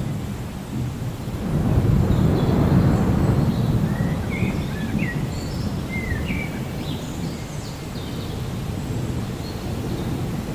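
Steady rain with a low rolling rumble of distant thunder that swells about two seconds in and slowly fades, and a few short bird chirps in the middle.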